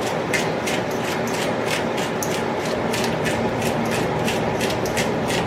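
Sea salt being shaken over raw chicken wings: a run of sharp, scratchy ticks about three a second, over a steady background noise.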